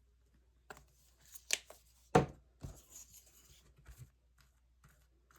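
Paper and craft supplies being handled at a table: scattered rustles and light clicks, with one sharp knock a little over two seconds in, as gloss medium is put down for the collage.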